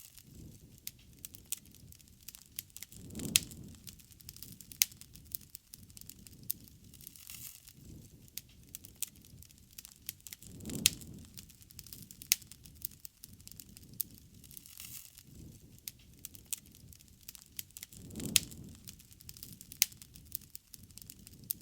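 Bonfire of burning wood crackling steadily, with frequent sharp pops and snaps. A low rumbling swell comes about every seven to eight seconds.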